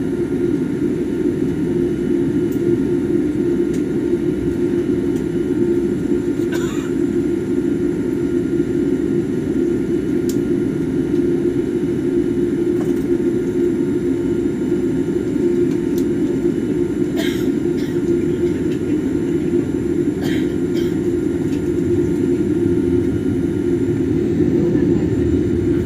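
Loud steady rumble of a Boeing 787 at takeoff as heard inside the passenger cabin, from jet engine noise and the airframe. A few faint rattles sound now and then.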